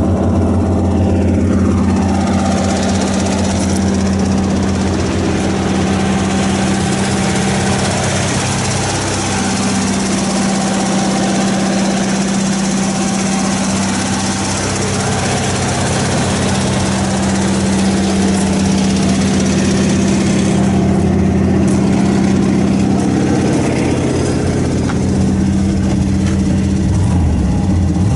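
Engine of a 1997 Ford utility boom truck idling steadily, with a slight shift in its tone about ten seconds in.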